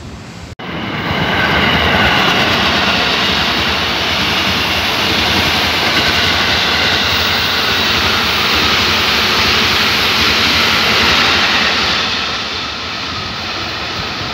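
KRL electric commuter train passing close by: a loud, steady rush of wheels on the rails with a faint high whine mixed in. It starts abruptly about half a second in and eases off near the end as the train moves away.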